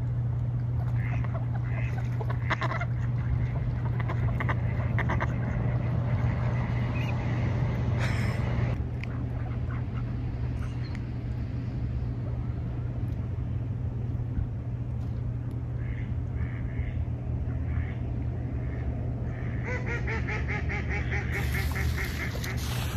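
A group of ducks quacking on and off, with a flurry of quacks near the end, over a steady low hum.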